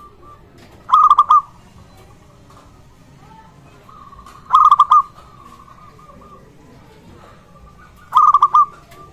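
Zebra dove (perkutut) cooing: three loud phrases of rapid, staccato coo notes, each about half a second long and spaced about three and a half seconds apart, with fainter cooing between them.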